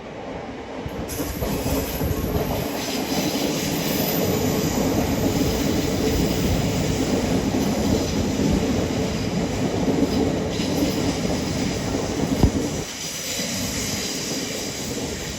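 A train passing through a station: wheels rumbling and clattering on the rails with some squeal. The noise builds over the first second or two, with a sharp knock shortly before it drops to a lower level near the end.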